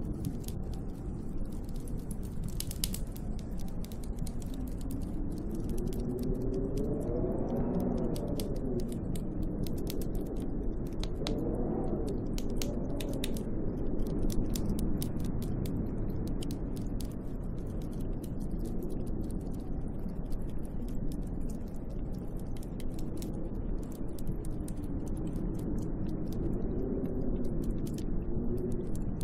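Snowstorm wind howling around a hut in gusts, its pitch rising and falling, over a steady rushing roar. A dense, irregular fine ticking runs throughout.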